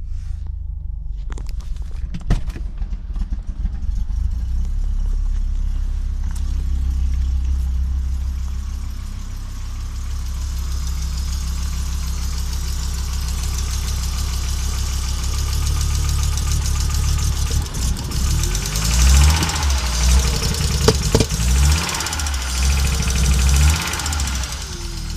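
Audi Coupe's AAR inline five-cylinder engine running unevenly, with misfires typical of its rough running after the engine swap. In the last several seconds the revs are raised and dropped irregularly.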